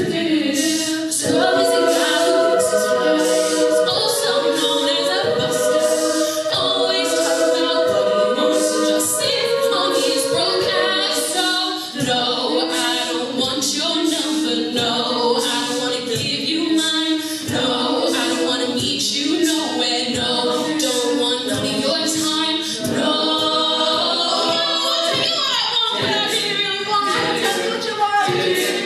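A cappella treble choir singing a pop medley in close harmony, with a vocal percussionist beatboxing a steady beat underneath.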